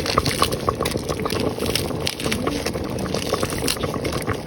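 Soup liquid bubbling in a cooking pot, a dense run of small pops and crackles.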